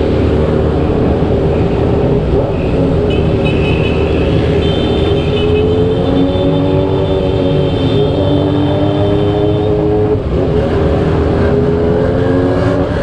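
Motorcycle engine running at road speed, its pitch drifting up and down with the throttle, under heavy low wind rumble on the helmet-mounted camera's microphone. A fainter high steady whine sits above it through the middle.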